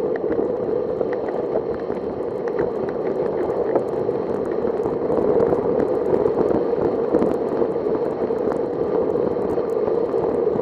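Steady rushing noise of a bicycle ride on wet road in the rain: wind on the microphone mixed with the wet hiss of the tyres.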